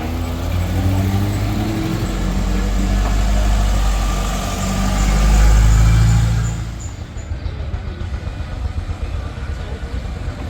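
A motor vehicle's engine running as it passes, a deep rumble that grows louder to a peak about five to six seconds in and then drops away quickly.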